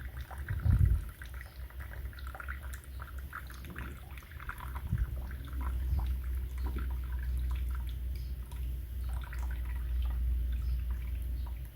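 Water splashing and dripping over a steady low hum, with a louder thump under a second in.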